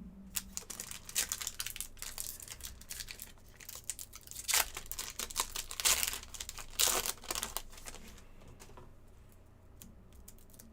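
Crinkling and tearing of trading-card pack wrapping, with cards being handled. It is busiest from about one to seven and a half seconds in, then drops to faint handling.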